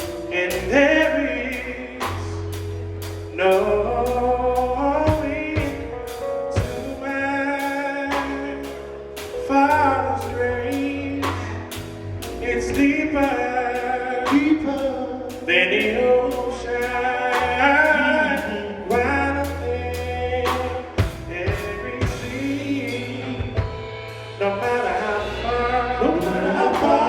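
Live gospel music: voices singing over a bass line and a drum kit keeping a steady beat.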